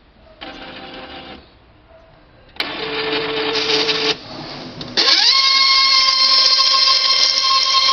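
Epson inkjet printer's mechanism whirring in two short bursts during its power-on cleaning cycle. About five seconds in, a loud steady high whine starts, rising briefly in pitch and then holding. This is the strange noise the printer makes as its print carriage locks at the end of initialization, the fault that ends in a general error.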